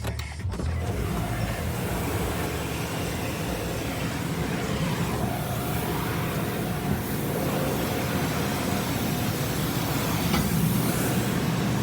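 Steady rushing air noise over a low hum, beginning suddenly about a second in.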